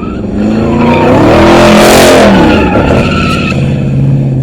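Car spinning its tyres in a burnout or donut: the engine revs up and down hard while the tyres screech, loudest about two seconds in, then the engine holds steady revs near the end.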